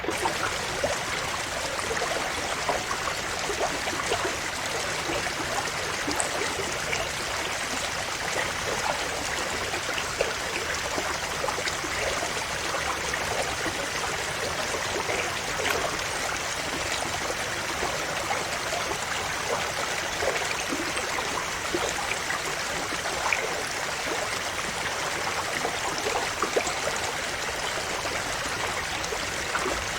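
River water flowing steadily, a continuous rushing sound dotted with many small splashes and gurgles.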